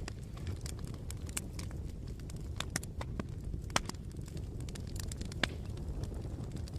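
Bonfire crackling: burning wood snapping in irregular sharp pops, a couple of them louder in the second half, over a steady low rumble.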